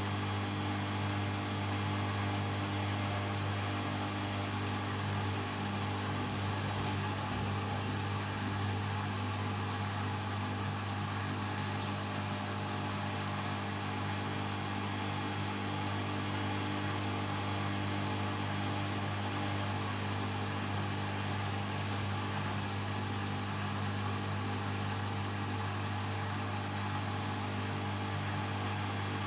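LG washing machine running with a steady motor hum: a constant low drone with a few steady tones above it, unchanging throughout.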